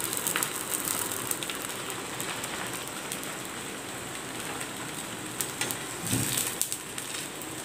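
Paruppu poli sizzling in oil on a hot cast-iron dosa griddle, a steady hiss dotted with small crackles. A steel spatula gives a short low knock about six seconds in.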